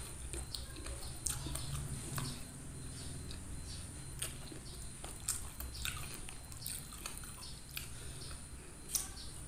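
Close-up eating sounds: chewing with scattered short wet clicks and smacks, as fingers pick flesh off a spiced fish head and carry it to the mouth. There is a sharper click near the end.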